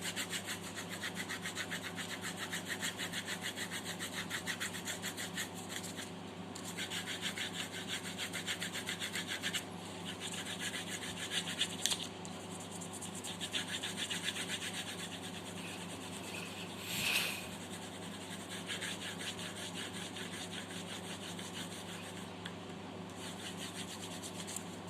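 Graphite pencil shading on paper: quick back-and-forth scratchy strokes in runs, pausing briefly a few times, with one louder scrape about two-thirds of the way through. A steady low hum runs underneath.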